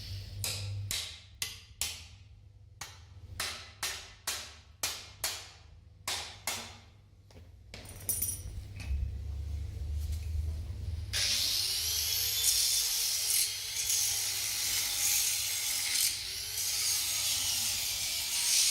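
Hand-tool strokes in the workshop, about ten in a row with a short gap between each, each starting sharply and fading. From about eleven seconds in, a louder, steady hiss takes over.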